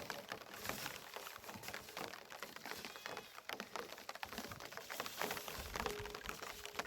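Irregular pattering of many small clicks and taps, with a faint short tone about three seconds in.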